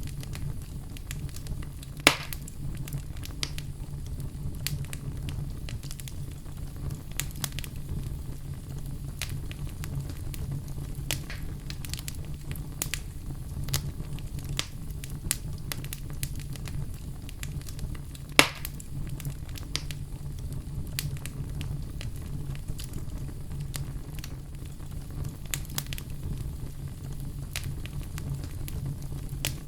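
Wood fire crackling, with a steady low rumble under many small scattered pops, and two louder sharp pops: one about two seconds in, another a little past the middle.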